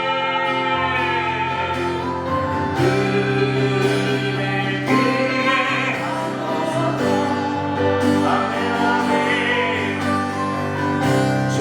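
Christian worship music: a group of voices singing a Korean praise song in long held notes over instrumental accompaniment.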